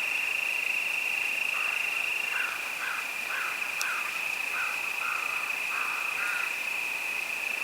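Crickets chirring in a steady high-pitched chorus that drops back about two and a half seconds in. Over the chorus a frog calls in a string of about eight short croaks.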